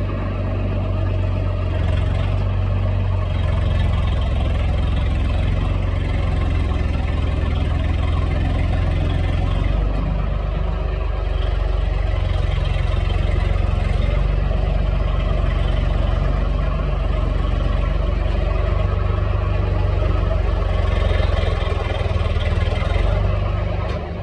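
Tractor engine running steadily with a heavy low rumble.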